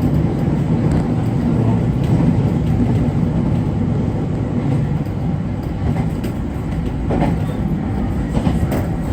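JR Kyushu 811 series electric train running along the line, heard from inside the car as a steady low rumble. A few brief knocks come in the second half.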